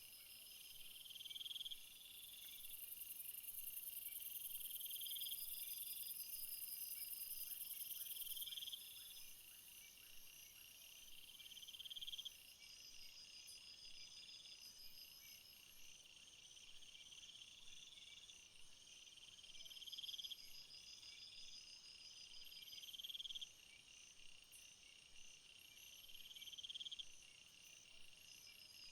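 A faint chorus of several chirping field insects. One repeats a short rising trill about every two seconds over a steady pulsed chirring, and a very high buzz runs for about ten seconds near the start, then breaks into short bursts after about twelve seconds.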